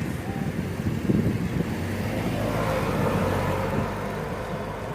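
Road vehicle noise: engine and tyre rumble that grows louder about two seconds in and eases off near the end.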